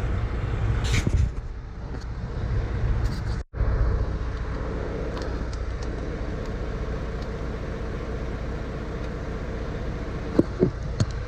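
Volvo semi truck's diesel engine idling steadily, back at normal idle after a forced regeneration has finished. The sound drops out briefly a few seconds in, and there are a few short knocks near the end.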